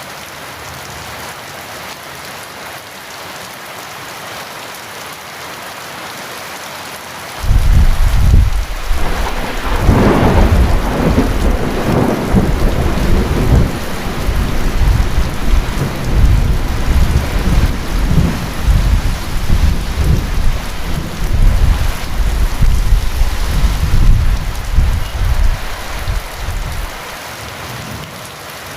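Steady heavy rain, with a long rumble of thunder that breaks in suddenly about a quarter of the way in, cracks loudest soon after, and rumbles on for nearly twenty seconds before dying away near the end.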